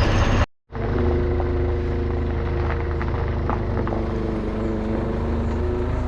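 An engine running steadily at a constant speed. Its note holds an even pitch after a brief louder, rougher rumble cuts off abruptly about half a second in.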